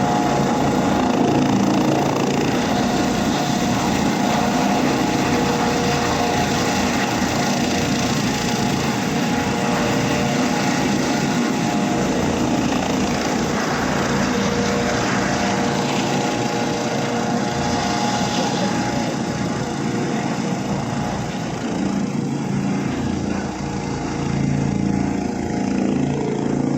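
Helicopter engine and rotor noise heard from inside the cabin: a loud, steady mechanical drone with a constant whine, dipping slightly about two-thirds of the way through.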